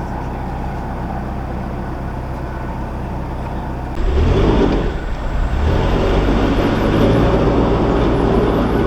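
Narrowboat engine running steadily. About four seconds in, the sound abruptly becomes louder and rougher.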